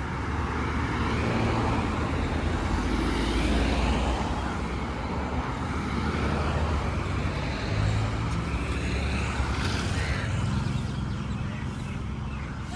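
Road traffic going by: a steady rumble of engines and tyres that swells and eases as vehicles pass.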